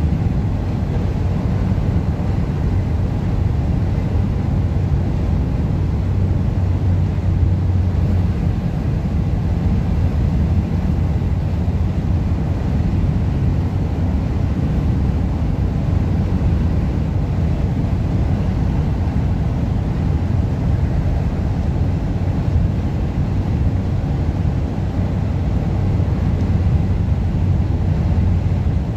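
Steady low rumble of a car driving along a highway, with road and wind noise.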